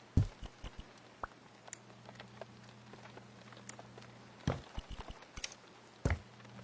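Irregular knocks and light taps of objects being handled, with louder thuds just after the start, about four and a half seconds in and about six seconds in, over a faint steady hum.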